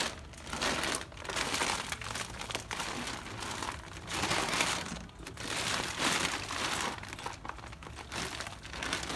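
Large bag of wild bird seed being handled, its packaging crinkling and rustling in repeated bursts.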